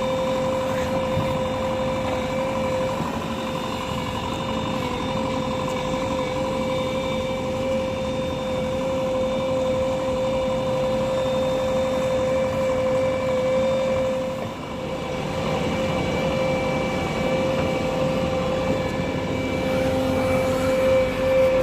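JCB 3DX backhoe loader running at a steady working speed: diesel engine rumble with a strong steady high whine over it, dipping briefly about two-thirds of the way through.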